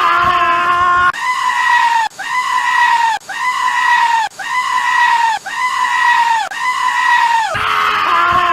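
A goat screaming over and over, about eight near-identical high-pitched bleats, one every second, each held and then dropping slightly in pitch at the end.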